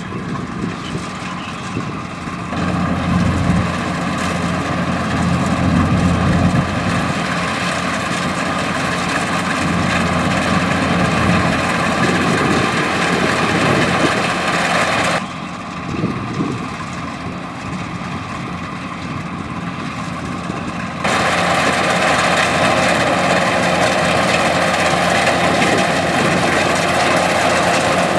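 Kubota DC105X combine harvester running steadily, its engine and machinery sounding together. The sound suddenly drops and thins about fifteen seconds in, then jumps back up to full about twenty-one seconds in.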